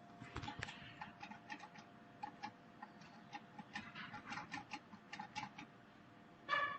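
Jewellery laser welding machine firing, each pulse a short sharp tick, a few a second at uneven intervals, over the machine's steady low hum. A louder knock comes near the end.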